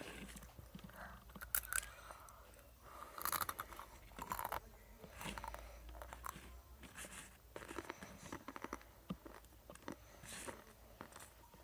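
Close-up chewing of crunchy food: an irregular run of short crunches and crackles.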